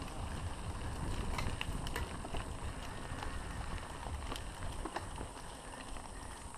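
Mountain bike riding over a trail: wind rumbling on the microphone, with scattered light clicks and rattles.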